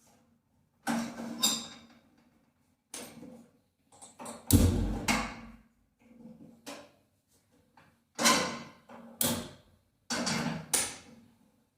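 Kitchen utensils and dishes being handled: a string of irregular knocks and clatters, some with a brief metallic ring, the loudest a heavy thud about four and a half seconds in.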